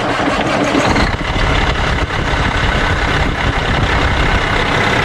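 Semi truck's diesel engine running steadily, loud and even, with no change in pitch.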